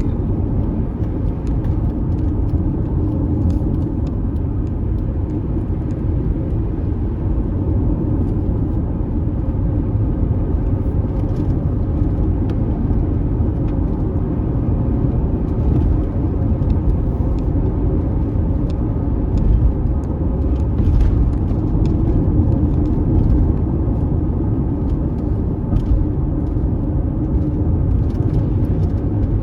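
Car driving on a dusty unpaved road: a steady low rumble of tyres and engine, with faint scattered ticks.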